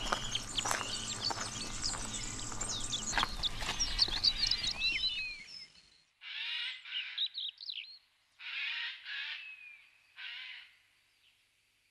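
Wild birds: a dense chorus of many chirping songbirds that stops about halfway through, then three separate harsh, rasping calls from a single bird, with quiet gaps between them.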